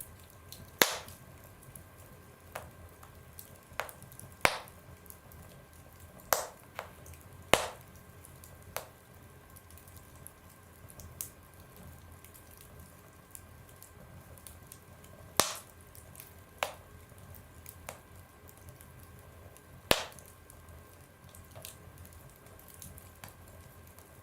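Wood fire crackling in a stove or fireplace: irregular sharp pops and snaps over a low hiss, with about six loud pops and several fainter ones, separated by quieter stretches.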